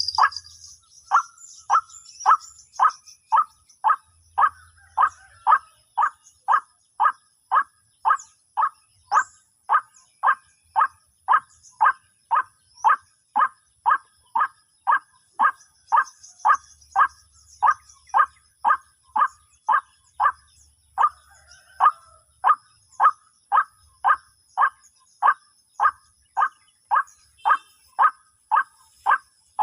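White-breasted waterhen call, a short downward-sweeping note repeated very evenly, about one and a half times a second, with faint insects buzzing behind it.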